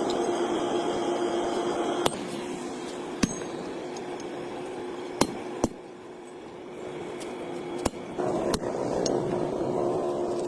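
Workshop sounds: about six sharp metallic knocks, spaced irregularly, over a steady hum.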